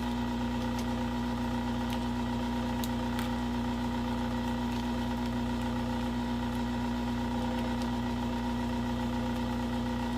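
Electric hot-air tool running with a constant motor hum and whine, used to heat and soften the screen adhesive. A couple of faint clicks sound about three seconds in.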